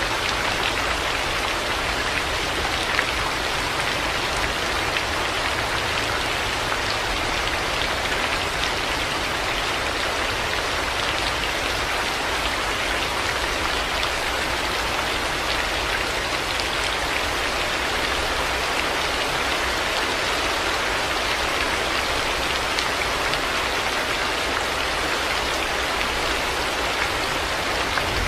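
Heavy rain falling steadily, a dense even hiss with the patter of many individual drops hitting surfaces.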